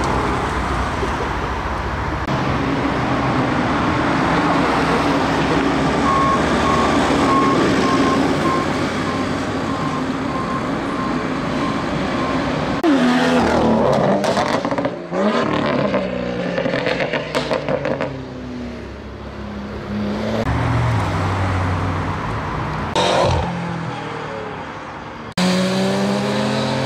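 Sports car engines passing one after another: a steady engine drone for the first half, then hard acceleration with the pitch rising through gear changes and several sharp cracks. Near the end a motorcycle engine revs up.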